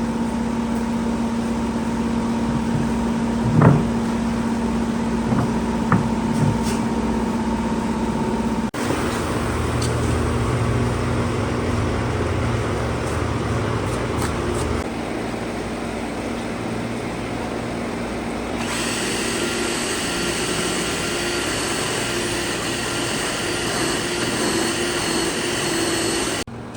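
Power tool motors running steadily, changing abruptly in tone three times as one run gives way to another.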